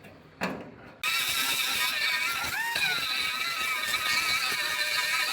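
A power grinder starts up about a second in, after a short knock, and runs with a steady high whine and hiss. Its pitch rises briefly midway, then drops back.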